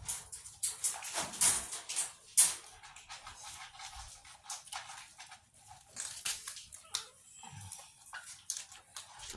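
Cats chewing dry cat food: a run of irregular crunches and clicks, loudest in the first couple of seconds.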